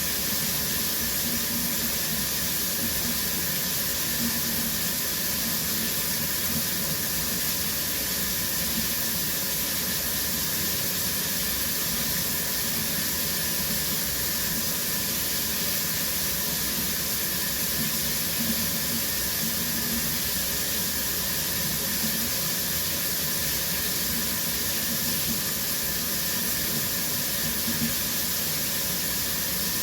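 Shower running steadily, water spraying from the showerhead with an even hiss.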